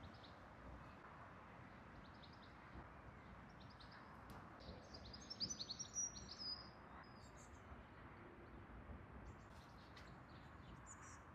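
Birds chirping faintly over quiet outdoor background noise, with a brief louder burst of rapid, high song about halfway through.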